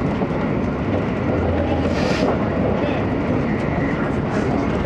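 Running noise of an E257 series limited express at speed, heard inside the passenger car: a steady rumble of wheels on rail with a few faint clicks and a brief hiss about two seconds in.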